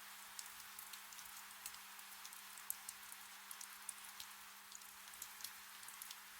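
Gentle rain falling in a forest: a steady soft hiss with many separate drops ticking through it.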